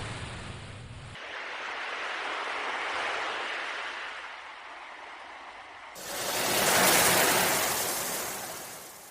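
Sea waves washing in and drawing back, a steady hiss that swells and fades. About six seconds in the sound changes abruptly and a louder wave surges up and dies away.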